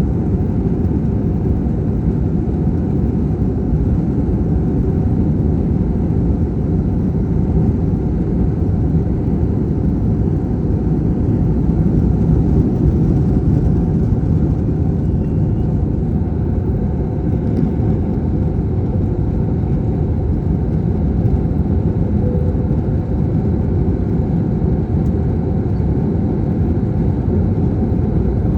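Airbus A321-200 cabin noise during takeoff: a steady, loud, low rumble of the jet engines at high power and the rushing airflow, heard from inside the cabin.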